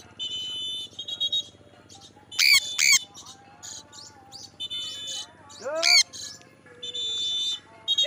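Birds squawking: sharp, loud squawks about two and a half and three seconds in and again near six seconds, over bouts of steady high chirping.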